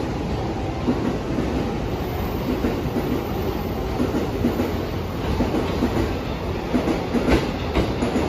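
JR East E259 series Narita Express electric train pulling into the station platform, a steady running rumble as it approaches, with a run of sharp wheel clicks about seven seconds in as the front end comes alongside.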